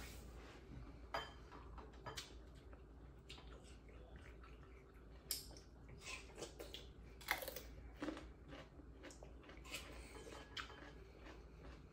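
Faint close-up eating sounds: soft chewing with scattered short crisp bites and crunches, the loudest about five and seven seconds in, from bites of watermelon and raw green pepper.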